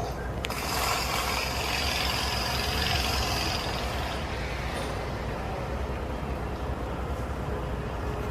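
Volvo truck's diesel engine running with a steady low rumble. A hiss comes in about half a second in and fades over the next few seconds.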